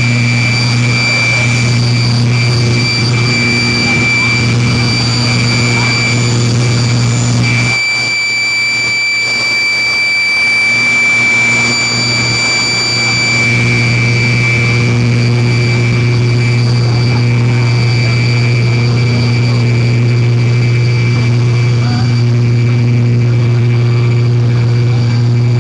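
A competition pulling tractor's engine running loud and steady at high revs, with a steady high whine over it. Its deep part drops away about eight seconds in and comes back a few seconds later.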